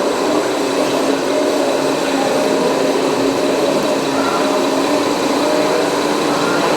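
Small electric motors of RC scale construction models running steadily, a continuous mechanical whir with a steady hum.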